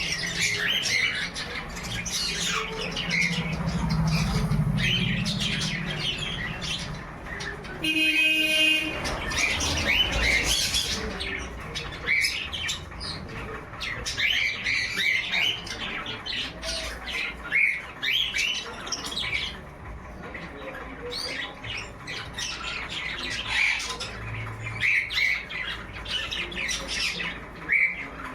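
Yellow-sided conures squawking and chirping in short, rapid calls throughout. A brief steady tone sounds about eight seconds in.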